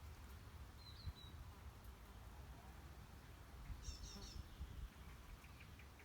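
Faint, scattered small-bird chirps: one short high chirp about a second in, then a quick cluster of higher chirps around four seconds in, over a low steady rumble.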